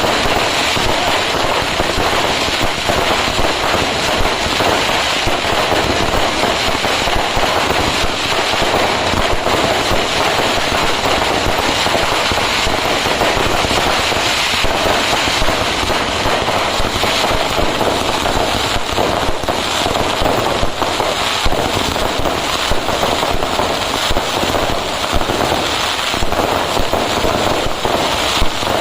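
Fireworks: a dense, unbroken barrage of firecrackers, many sharp cracks and bangs packed close together in a continuous crackle.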